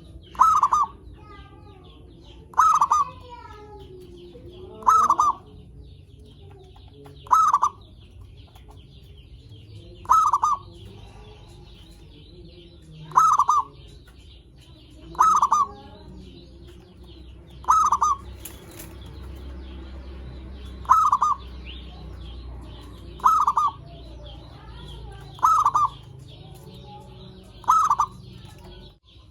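Zebra dove (perkutut) giving short, loud cooing calls, twelve of them at a steady pace of about one every two and a half seconds, used as a lure call to draw other perkutut. Faint, continuous chirping of smaller birds runs underneath.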